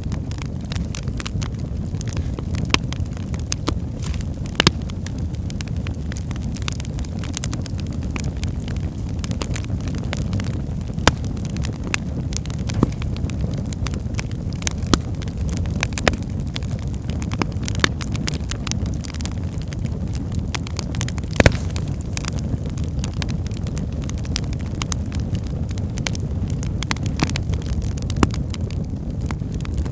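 Wood fire burning in a fireplace: a steady low roar of flames with frequent sharp crackles and pops of burning logs, one pop louder than the rest about two-thirds of the way through.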